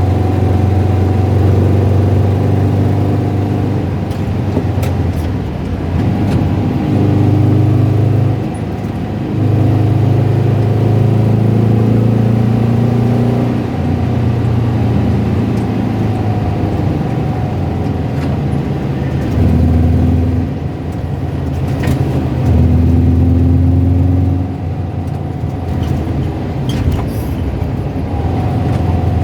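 Car engine running, its revs raised and dropped several times, with the rattly tapping noise that comes from the engine at lower revs.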